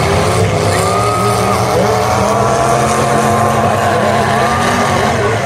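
Several demolition-derby cars' engines running and revving at once, their pitches rising and falling as the cars push and ram each other.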